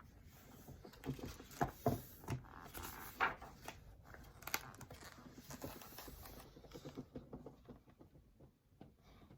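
Paper rustling with irregular soft knocks and clicks from a picture book being handled, its pages turned. The loudest knocks come in the first few seconds.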